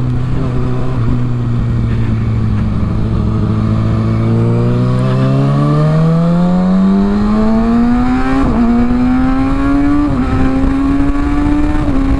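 Kawasaki ZX-6R inline-four with a Yoshimura aftermarket exhaust, first holding a steady low note, then climbing in pitch as the bike accelerates, with brief dips near the end as it shifts up.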